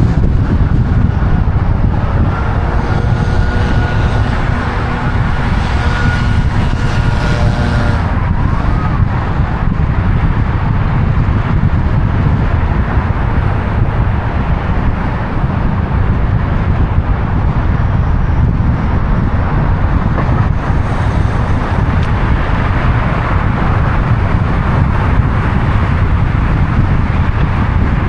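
Heavy, steady low rumble of road traffic or a moving car, with a steady whine of several tones from about two to eight seconds in that cuts off suddenly.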